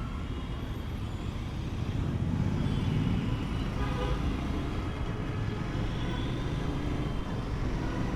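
Motorcycle riding through road traffic: steady engine and road noise, with vehicle horns tooting.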